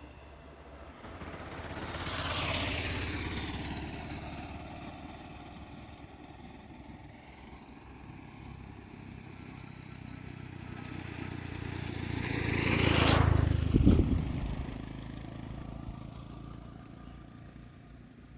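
Two road vehicles passing by one after the other, each swelling up and fading away. The first peaks about two seconds in, and a louder second one passes about thirteen seconds in.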